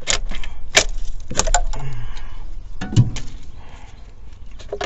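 Metal clinks and knocks of hand tools and engine parts being handled during an engine teardown: a handful of sharp clanks spread over a few seconds, the loudest about three seconds in.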